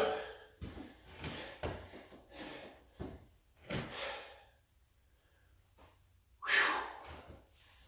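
A man breathing hard after heavy lifting: a series of short breaths, a quiet pause, then a louder exhale about six and a half seconds in.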